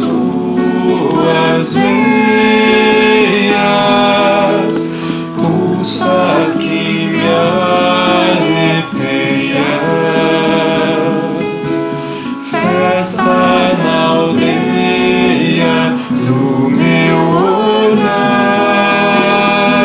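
A choir singing a song over musical accompaniment, with long held, gliding notes.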